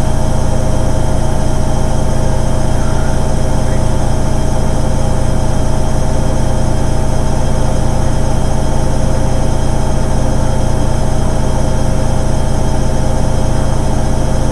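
Hoover Ecologic 800 automatic washing machine running with a steady, unchanging motor hum.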